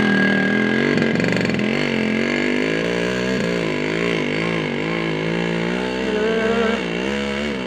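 Yamaha RX-King two-stroke motorcycle engine straining up a steep slope under a heavy load of palm fruit, its revs rising and falling over and over as the rider works the throttle.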